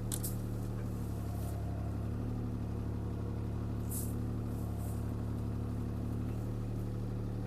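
CAT 303C CR mini excavator's diesel engine running steadily under work. A higher, steady hum joins in from about two seconds to just past six seconds. A few brief sharp clicks come near the start and around four to five seconds in.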